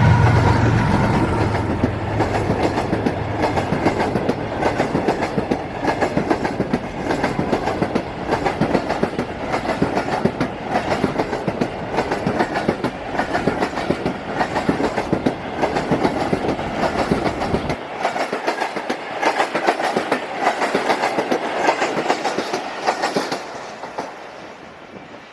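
A passenger train passes at speed behind its GEU40 diesel-electric locomotive: the engine's low drone at the start, then a long run of coaches with the wheels clattering rapidly over the rail joints. The clatter fades away near the end.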